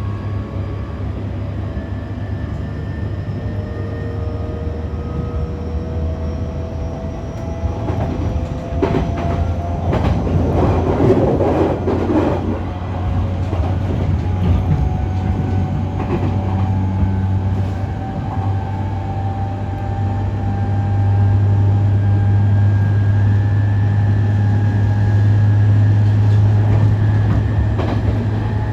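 Joban Line E531-series electric train running, its Hitachi IGBT inverter whine rising slowly in pitch as it gathers speed, heard from inside the car. The wheels rattle over the rail joints in the middle, and the low running hum grows louder in the second half.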